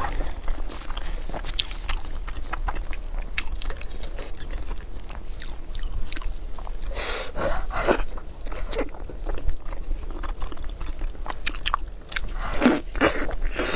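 Close-miked chewing and biting into spicy braised beef tendon, with a steady stream of small mouth clicks and a few louder mouth sounds about halfway through and near the end.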